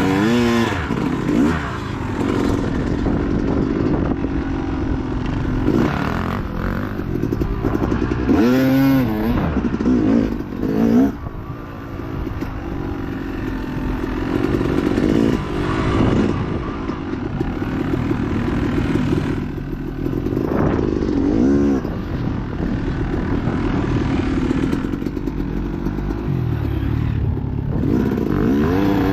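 Dirt bike engine ridden hard off-road, its revs climbing and dropping over and over as the rider works the throttle and gears.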